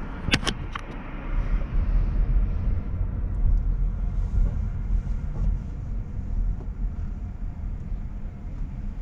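Car wash machinery running with a steady low rumble; a few sharp clicks come about half a second in.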